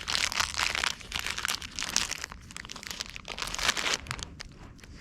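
Irregular crinkling and crackling rustle.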